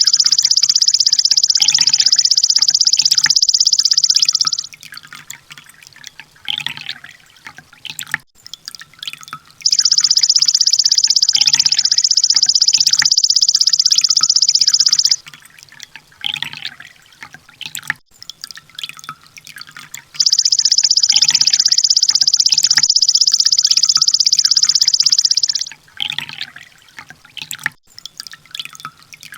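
Recorded sunbird song: a very fast, high-pitched trill lasting about five seconds, repeated three times about ten seconds apart, with short scattered chirps and ticks in the gaps between.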